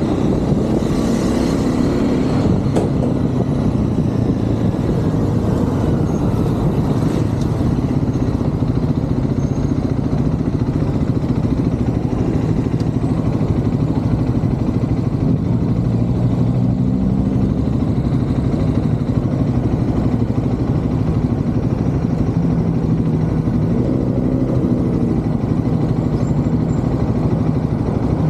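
Triumph Scrambler 400 X's single-cylinder engine running under way in city traffic, its pitch rising and falling with throttle and gear changes, with road and traffic noise around it.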